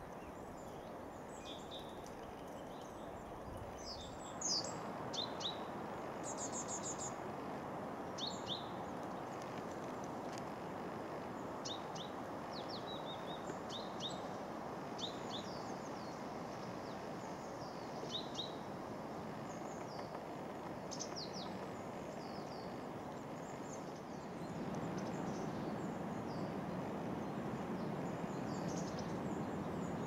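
Short, high bird calls and chirps scattered throughout, one louder call about four seconds in, over a steady background noise that grows louder about 24 seconds in.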